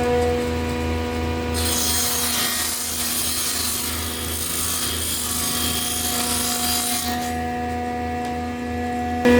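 A small power tool, most likely a sander, runs with a steady hum. From about a second and a half in until about seven seconds it is pressed against wood, and a rough, scratchy abrading hiss takes over; then the steady hum returns.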